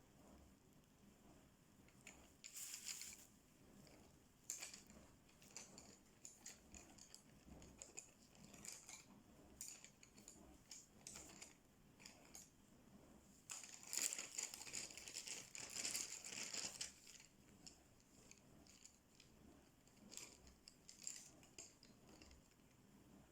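Faint, scratchy strokes of coloring on paper, coming in short runs. The strokes are busiest about two to three seconds in and again from about thirteen to seventeen seconds in.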